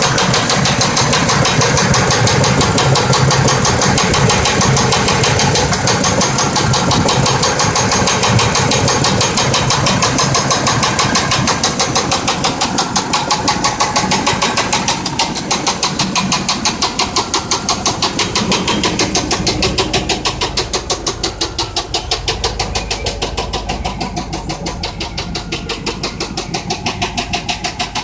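1992 Buick Roadmaster's small-block V8 running with a fast, regular rod knock: a failed connecting-rod bearing. The knock grows somewhat quieter and more pulsing in the second half.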